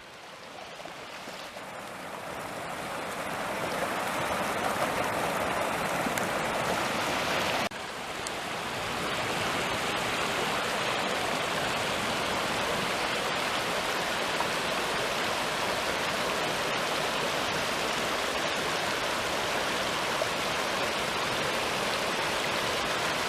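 Rushing stream water, a steady hiss with no other sound. It grows louder over the first few seconds, drops suddenly about eight seconds in, then holds steady.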